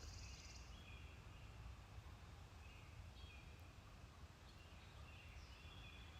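Faint bird calls, a few short high notes now and then, over a steady low rumble of background noise.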